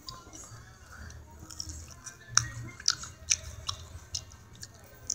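Close-up chewing with wet mouth smacks and clicks, coming every half second or so in the second half.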